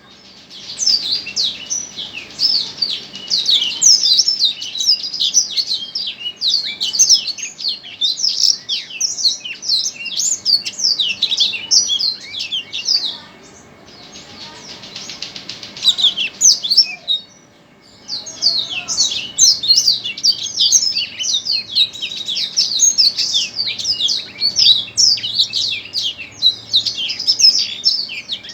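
Songbird singing a long, rapid stream of high chirps and trills, with a softer trilled stretch and a short break about halfway through.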